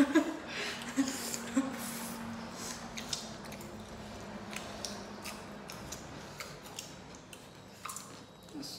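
Close-miked eating sounds: wet chewing and mouth smacks as people eat rice and meat curry with their hands, with many short sharp clicks and a brief voice near the start.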